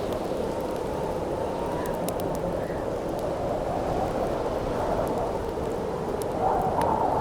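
Wind howling steadily over a crackling campfire, with sharp pops of burning wood scattered through it. The wind swells louder near the end.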